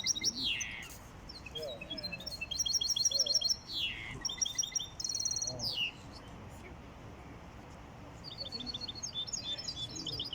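European goldfinch singing: phrases of fast, rattling repeated high notes broken by quick downward sweeps, pausing about six seconds in and starting again near the end.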